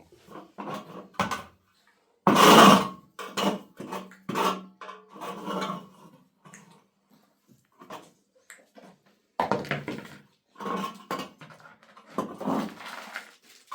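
Irregular clatter and knocks of objects being handled, with one louder noisy sound lasting under a second about two and a half seconds in.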